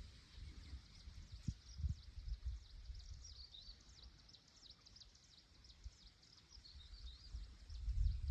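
Birds chirping outdoors in a run of quick, high, repeated notes, faint, over an uneven low rumble with a few soft thumps.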